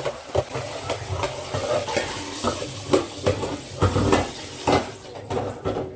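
Spoon and fork stirring noodles in a bowl: a steady scraping hiss with many irregular clinks and knocks of the utensils against the bowl.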